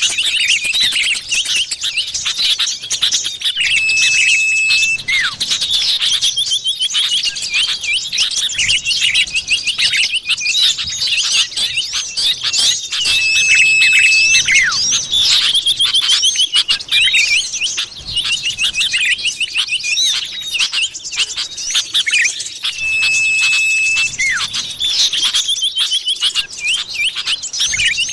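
Common iora (cipoh) calls from a bird-lure track: dense, rapid chirps and trills overlapping one another, with a long level whistle recurring about every nine seconds as the pattern repeats.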